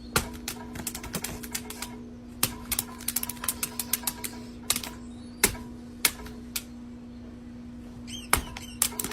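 Rapid, irregular sharp clicks and taps over a steady low hum, bunched into quick runs in places, like typing.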